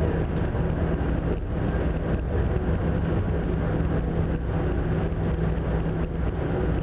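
Steady drone of a large passenger ferry's engines, with an even rushing noise over it.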